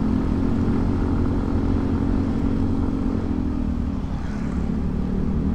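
Motorcycle engine running under way at a steady cruise, its note rising a little and then easing off, over a continuous low rumble.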